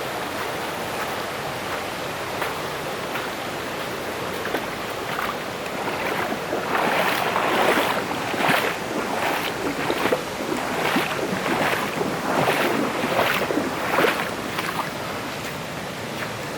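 Steady rush of a mountain stream, with a run of rhythmic splashing about one every three quarters of a second through the middle stretch: feet wading through shallow water.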